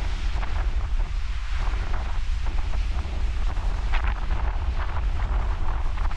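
Wind buffeting the microphone with a steady low rumble, over the hiss and wash of ocean surf.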